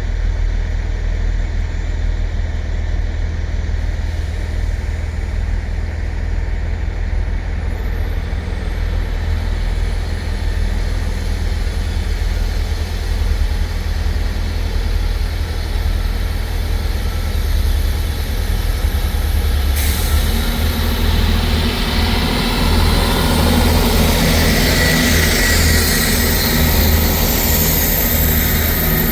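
Two coupled Class 159 diesel multiple units running at a steady low idle, then about twenty seconds in their engines open up as the train pulls away, the sound growing louder and fuller toward the end.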